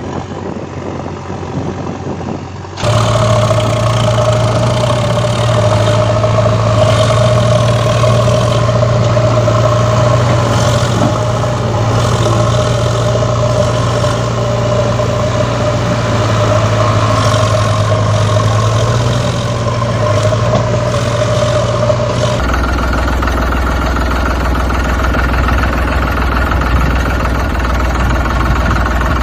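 Vehicle engine running steadily, with abrupt cuts to a different engine sound about 3 s in and again about 22 s in.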